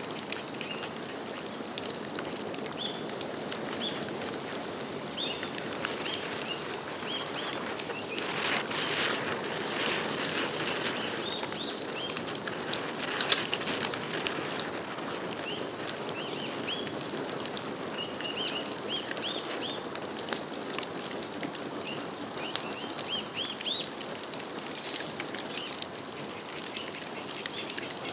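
Bamboo bonfire burning with a steady crackle and scattered sharp pops, one much louder pop about 13 seconds in.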